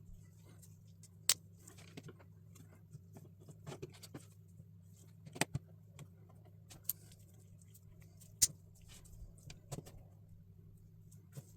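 LEGO plastic pieces being handled and clicked together, sharp irregular clicks and light rattles, the loudest about a second in, about five and a half seconds in and past eight seconds, over a steady low hum.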